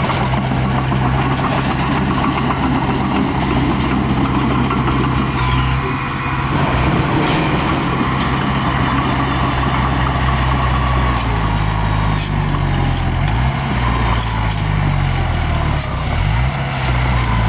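Diesel engine of heavy earthmoving machinery running under work, its pitch shifting about six seconds in and rising and falling several times in the second half, with a few light clanks near the end.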